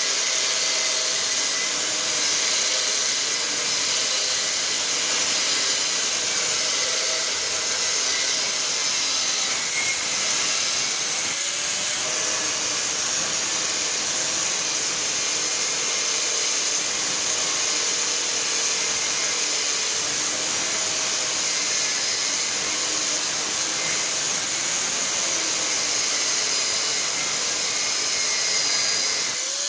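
Angle grinder with a cut-off disc cutting mild steel: a steady, loud, hissing grind over the motor's whine, which wavers in pitch now and then and rises again near the end.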